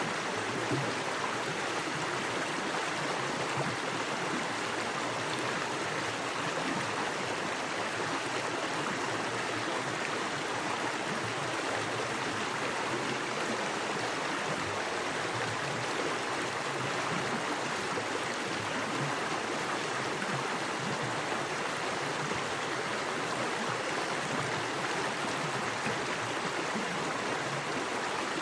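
Small forest creek, fast water running over rocks: a steady, even rush without pauses or changes.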